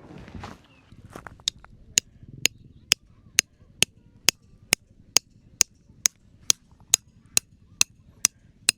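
Steady hammering: a long run of sharp, evenly spaced strikes, about two a second, starting about a second and a half in.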